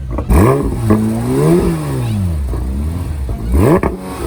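A car engine being revved in blips. There is a sharp rise in revs near the start, a fall and rise in the middle, and another sharp rise near the end.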